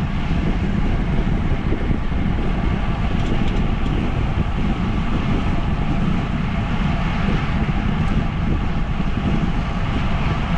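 Steady wind rushing over the microphone of a bicycle rider moving along at speed, mixed with rolling road noise.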